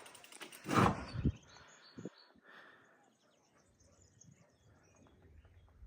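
Quiet outdoor ambience with faint, scattered chirps of distant birds, after a brief rush of noise on the microphone about a second in.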